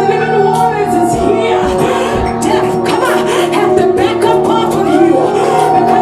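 Church worship music: steady held chords with singing over them and a few light percussive strikes.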